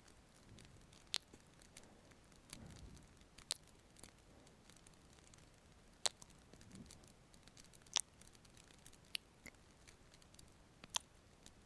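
Fireplace wood fire crackling softly: a faint steady hiss broken by sharp, irregular pops every second or two.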